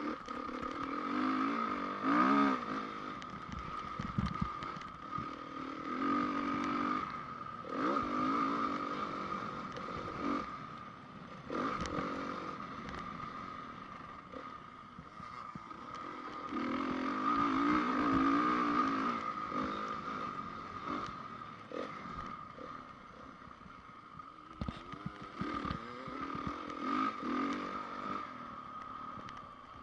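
A 2010 Honda CRF450 motocross bike's single-cylinder four-stroke engine being ridden hard, revving up and easing off again and again in surges, with a steady whine underneath and occasional knocks and clatter.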